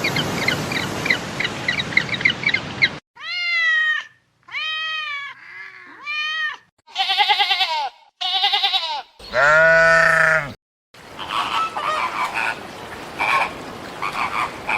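A string of separate animal calls. It opens with a stretch of rapid repeated chirps, then a series of short, arched, wavering bleat-like calls, one of them deeper and louder about two-thirds of the way through, and ends in a busy mix of short calls.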